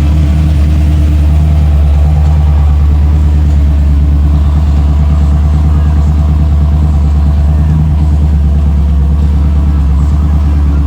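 Chevrolet C10 pickup's engine running steadily close by, a loud, deep, even rumble that holds without revving up or down.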